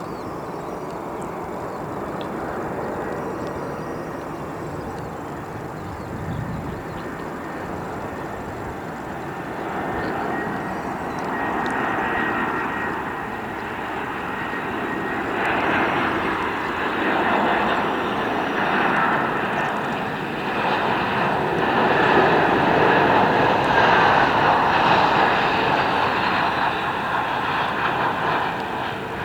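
Airbus A319 jet airliner coming in to land, its turbofan engines making a steady rushing noise with a faint high whine. It grows louder over the second half and is loudest near the end.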